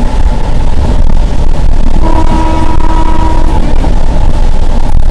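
Passenger train running at speed, heard at an open door, with heavy wind buffeting on the microphone. A faint steady tone sounds for a second or two in the middle.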